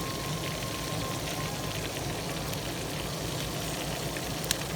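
Fish frying in hot grease on a grill, a steady sizzle, with one sharp click near the end.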